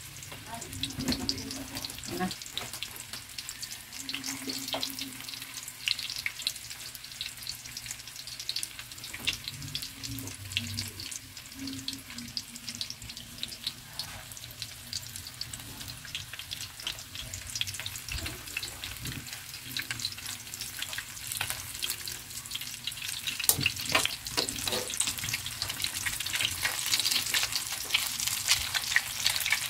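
Breaded eggplant rolls shallow-frying in hot oil in a pan, sizzling and crackling steadily. The crackle grows louder over the last several seconds, with a few sharp clicks, as metal tongs turn the pieces.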